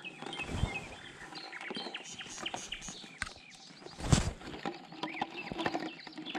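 Birds calling with many short chirps. There is a single knock or splash about four seconds in.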